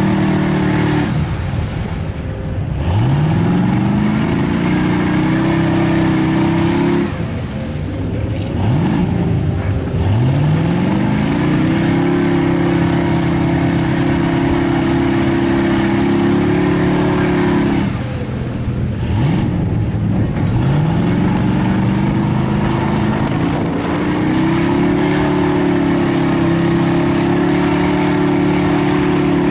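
Mud truck engine held at high, steady revs, the throttle lifted three times (about a second in, around seven seconds and about eighteen seconds in), each time the revs falling away and then climbing back up.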